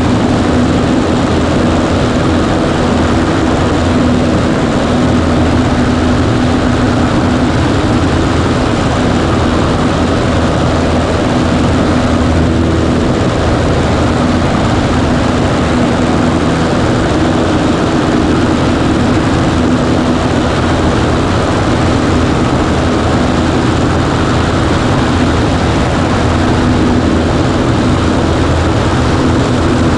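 Cessna 140A's piston engine and propeller running at a steady, unchanging pitch: an even drone with a constant hum under it.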